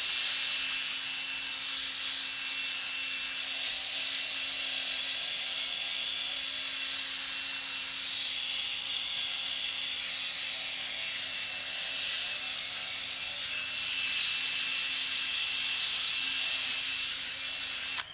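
Electric drill spinning a P800 sanding disc against a plastic headlight lens: a steady motor whine under a sanding hiss. It stops abruptly near the end.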